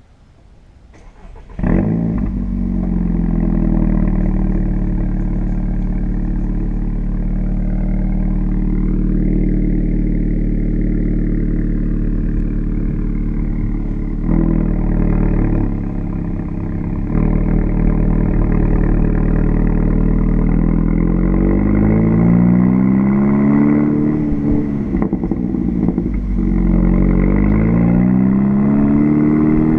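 Volkswagen GTI's turbocharged four-cylinder engine, breathing through an APR turbo-back exhaust with an APR K04 turbo, starting up about a second and a half in and settling into a steady idle. In the second half it is revved in several short throttle blips.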